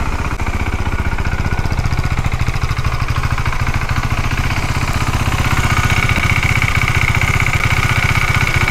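KTM Duke 390's single-cylinder engine idling hot with a fast, even beat. About halfway through, a steady high whir comes in over it: the electric radiator fan cutting in now that the engine has reached temperature.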